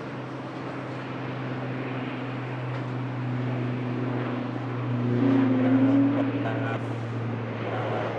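ATR 72-600 turboprop's engines and propellers droning as the airliner passes. There is a steady low hum with a higher whine that rises a little, and it grows louder to a peak about two-thirds of the way through.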